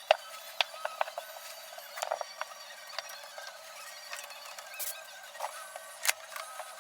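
Scattered light clicks and taps of small metal brake parts and hand tools being handled during a motorcycle brake rebuild, over a faint steady hum.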